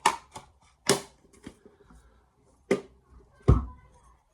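Hard clacks and knocks as a diamond sharpening plate and its base are handled and set down on a table, about six sharp hits; the last one is the loudest, with a heavy thump.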